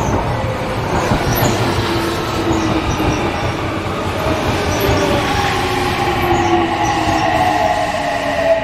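Odakyu electric commuter train pulling out of the station: several motor whines slowly shifting in pitch over steady wheel-and-rail running noise.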